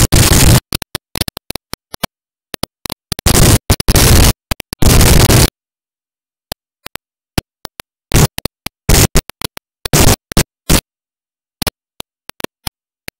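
Harsh bursts of loud static-like noise that cut in and out abruptly, with dead silences between them, like a corrupted or glitching digital audio track. The longest bursts come near the start, around four to five seconds in, and between about eight and eleven seconds.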